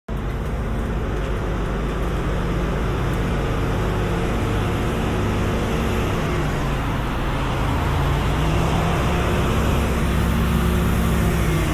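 Steady low engine rumble of construction-site machinery, with a few droning hum tones that shift slightly in pitch partway through. It starts abruptly.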